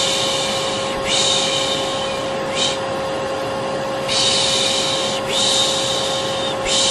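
Vacuum cleaner running with a steady drone, while a person shushes over it again and again. The 'shh' sounds are mostly long, about a second each, with a brief one here and there.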